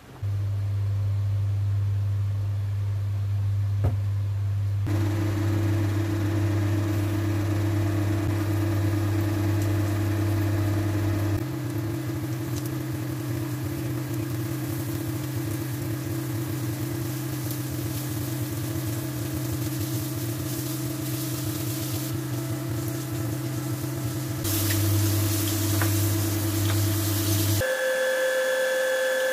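Chicken wings shallow-frying in oil in a wok, sizzling and crackling over a steady low hum. The sizzle starts about five seconds in and is loudest near the end.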